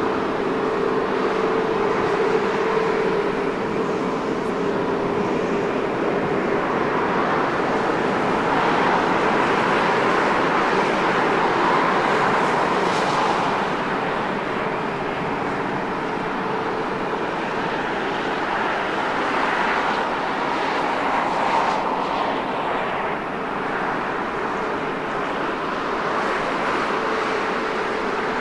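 Jet aircraft engines running steadily at low power: a continuous rush with faint steady tones, swelling a little partway through.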